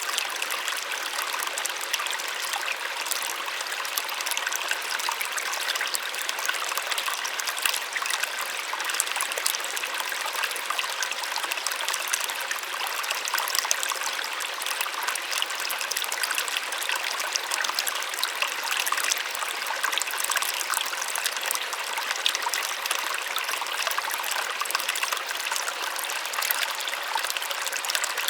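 Small waterfall splashing and rushing steadily, a soft, even water sound with little low rumble.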